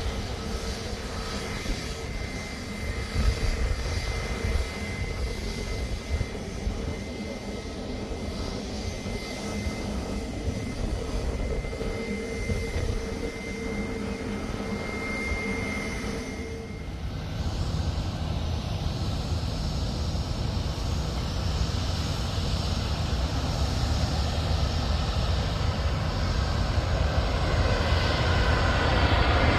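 Jet airliner coming in low to land, its engine noise growing louder toward the end. A steady high whine sounds over the rumble for about the first half, then stops.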